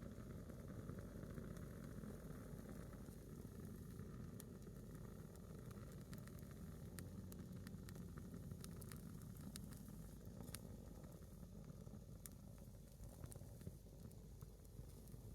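A single log of firewood burning in a small wood fire, giving off faint, scattered crackles and pops over a low, steady rumble.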